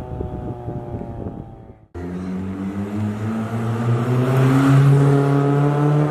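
Maruti Baleno running through a custom straight-piped exhaust with an aftermarket end can: the engine note falls in pitch for about two seconds, cuts off abruptly, then comes back and rises slowly and grows louder as the engine is revved.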